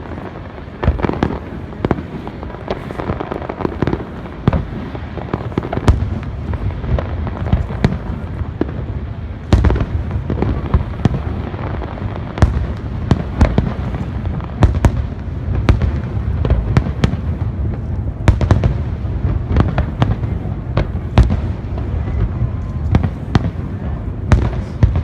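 Fireworks display: a continuous run of bangs and crackling reports over a low rumble. It grows louder and denser about ten seconds in.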